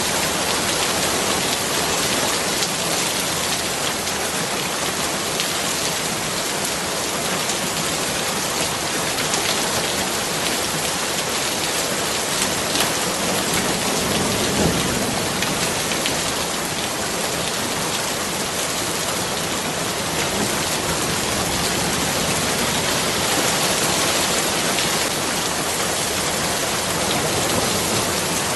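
Steady heavy rain: an even, unbroken hiss of many drops falling on surfaces, with a few slightly louder drops now and then.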